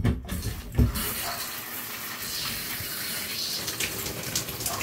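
A couple of low thumps, then hot water starts gushing from a tap about a second in and runs steadily.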